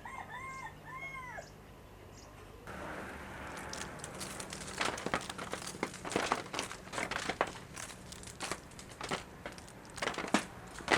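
A rooster crows at the start, one crow of several arched rising-and-falling notes. From about three seconds in, a busy run of sharp snaps, clicks and rustles follows.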